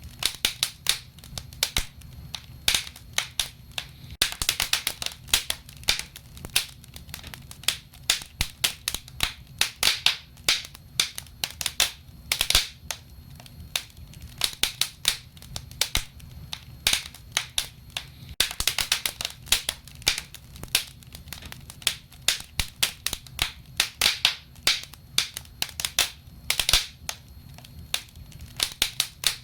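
Wood fire crackling in a fireplace: irregular sharp pops and snaps, several a second and coming in clusters, over a low steady rumble of the flames.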